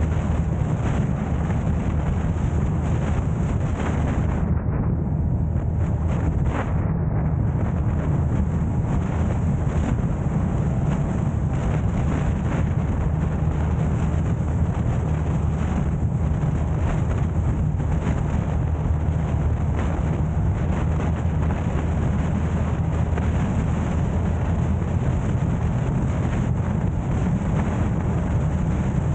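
Steady low rumble of a car driving: road, engine and wind noise, with wind buffeting the microphone.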